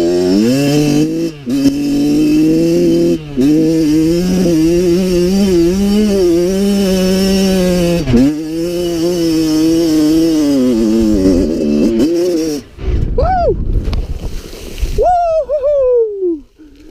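Kawasaki KX112 two-stroke dirt bike engine revving hard under load on a steep hill climb, its pitch rising and falling with the throttle, with a few brief dips. About thirteen seconds in the engine note gives way to rough rushing noise, then falling revs near the end.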